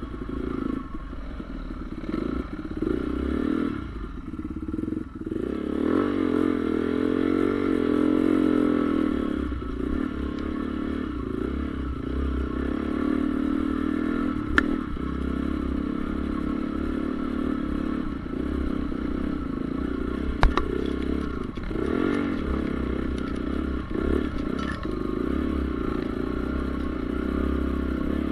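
Honda CRF450R's single-cylinder four-stroke engine running under riding load, its revs rising and falling. Two sharp clicks stand out, one about halfway through and a louder one about two-thirds through.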